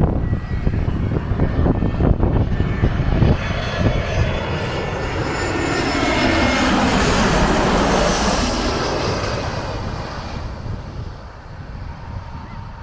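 A jet airliner passing low overhead on its landing approach: the engine noise swells to a peak around the middle, then fades as its pitch falls. Wind buffets the microphone at the start.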